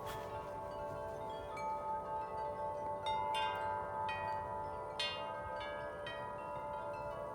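Several sets of large tuned tube wind chimes, among them Corinthian Bells and Bells of Vienna, rung by gusts of wind. Their deep notes ring on and overlap, with new strikes about a second and a half in, around three seconds and around five seconds.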